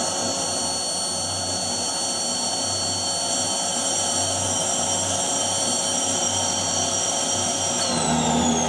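Vacuum cleaner motor running with a steady high whine, then switched off near the end, its pitch falling as it winds down. It sounds dodgy and isn't working properly, which the owner puts down to a filter still damp and foamy from washing.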